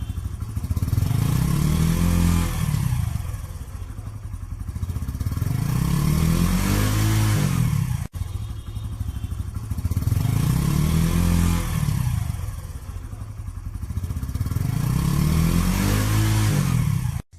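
Hero Passion X Pro's single-cylinder four-stroke motorcycle engine being revved up and let back down to idle about four times, the pitch rising and falling each time. There is a brief break in the sound just past the middle.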